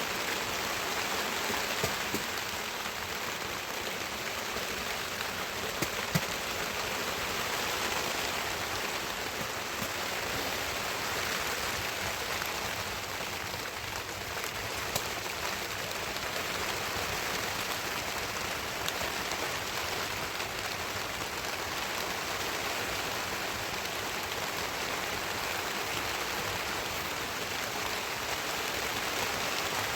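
Heavy rain falling steadily, a continuous hiss of rain with a few sharper drop hits.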